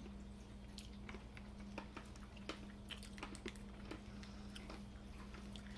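Faint crunching of a Giant Parma Violets candy, a hard compressed-sugar sweet, being chewed: a scatter of small irregular clicks over a steady low hum.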